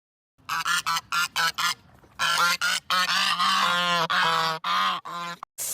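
Geese honking: a quick run of short honks, a brief pause, then a string of longer, drawn-out honks.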